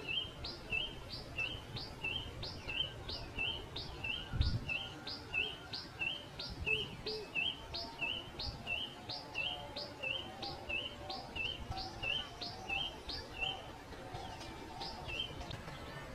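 Pipit calling: a short two-note chirp repeated steadily about one and a half times a second, stopping near the end. A brief low thump about four and a half seconds in.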